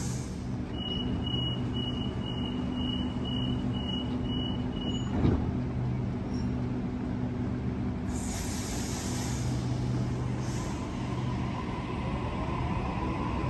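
Electric suburban train standing at the platform with its motors humming: about nine quick door-closing warning beeps, a thump as the doors shut, then two hisses of air, and near the end a rising whine as it starts to pull away.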